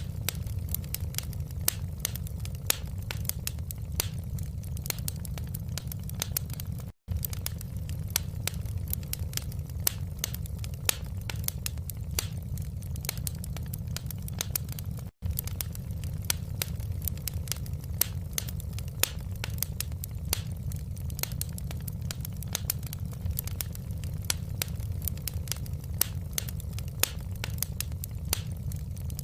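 Wood fire crackling in a fireplace: a steady low rumble of flames under many irregular sharp pops and snaps. The sound cuts out completely for an instant twice, about a third and halfway through.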